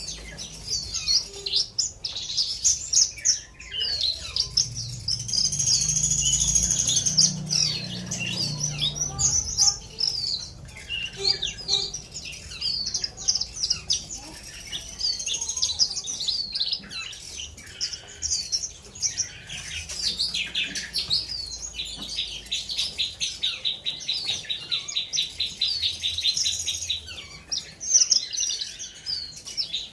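Horsfield's bushlark (branjangan) singing a long, varied song of rapid chirps and whistles, with a held high whistle early on and a fast, even trill of several seconds later in the song.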